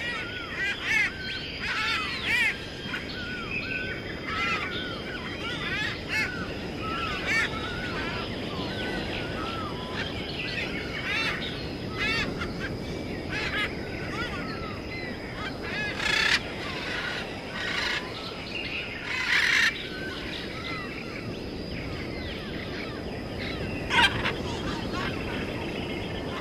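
Birds chirping in quick, repeated arched notes over a steady outdoor background with a thin high tone. A few sharp knocks cut through about two-thirds of the way in and again near the end.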